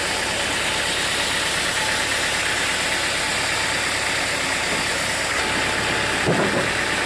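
Sawmill machinery running steadily, an engine-like hum and hiss, with a single brief knock near the end.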